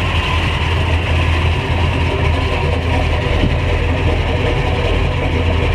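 Car engine idling steadily: a low drone with a hiss above it.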